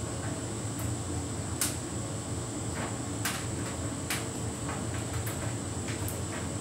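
Hotpoint heat pump tumble dryer running a synthetics cycle: a steady low hum, with irregular light clicks and knocks from the tumbling drum.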